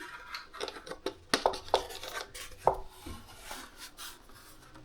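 Bench handling noises: several sharp clicks and light knocks of small hard objects being tapped or set down, with rubbing and rustling between them; the loudest knock comes a little past halfway.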